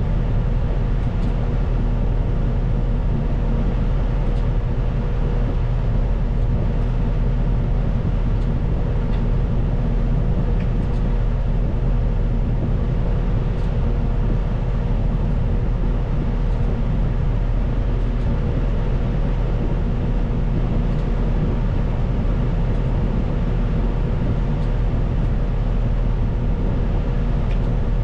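Caterpillar 926M wheel loader's diesel engine running steadily under a constant drone, with a thin steady whine above it.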